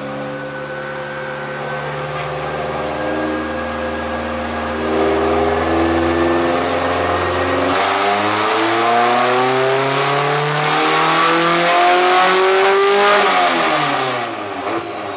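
Honda B20 VTEC four-cylinder on open headers making a full-throttle dyno pull, revs climbing steadily. The note turns harsher and louder about eight seconds in as VTEC engages. The revs fall away quickly near the end as the throttle closes.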